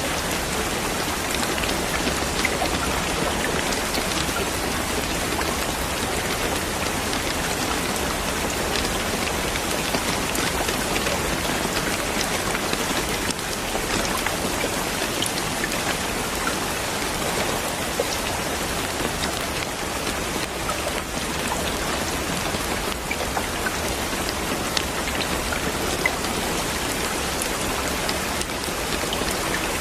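Steady rain falling on a surface, a dense even hiss dotted with many small drop ticks.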